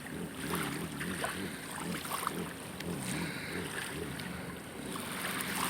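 A boat's motor running out on the river, its pitch wavering up and down and then holding steady near the end, with light wind on the microphone.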